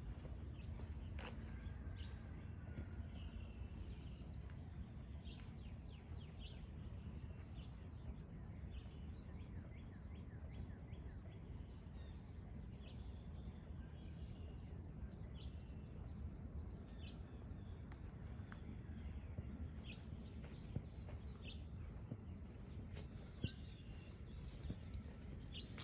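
Footsteps crunching along a forest trail at about two steps a second, thinning out later, with short bird chirps repeating over a low steady outdoor rumble.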